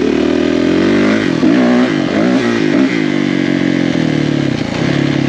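Off-road racing engine, a single-cylinder four-stroke, running hard at high revs. In the middle the pitch drops and climbs several times as the throttle is rolled off and back on, then it holds steady again.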